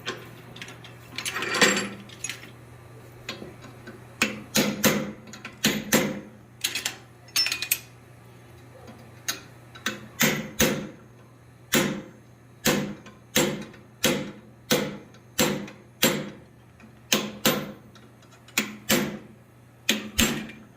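Hand hammer striking a hot steel bar on an anvil, opening up the split end of the bar. The blows come in an uneven rhythm of about one to two a second from about four seconds in, each with a short ring, with a brief pause in the middle.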